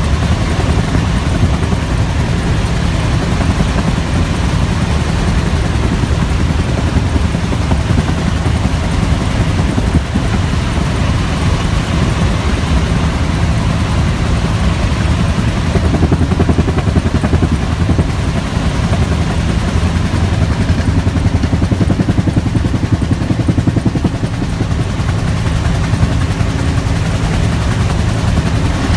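Bell UH-1 'Huey' helicopter in flight: its turboshaft engine and two-bladed main rotor run steadily with a fast, even rotor beat.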